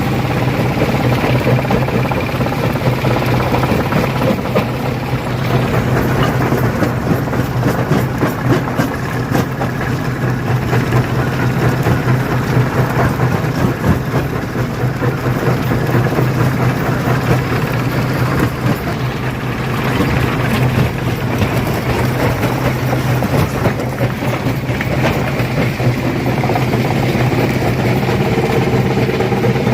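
Stone crusher running and crushing rock: a steady low mechanical drone with a constant rattle of sharp cracks and knocks as stones break.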